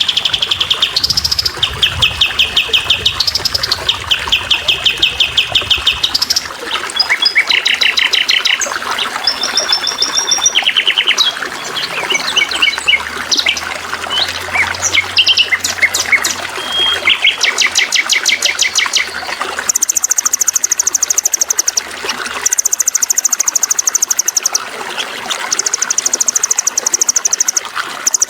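Several songbirds singing, one after another, in fast repeated trills and chirp runs, some high and some lower. A steady trickle of water runs underneath.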